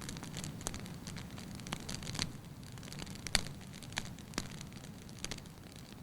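Firewood burning in a fireplace: a low steady rush of flame with irregular sharp crackles and pops, the loudest a little past the middle.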